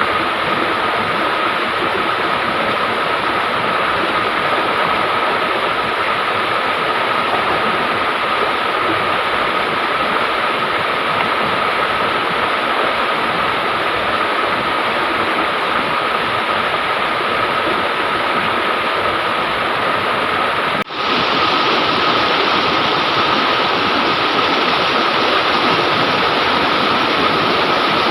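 River water rushing in a steady, continuous flow. A brief break about 21 seconds in, after which the rush is slightly louder.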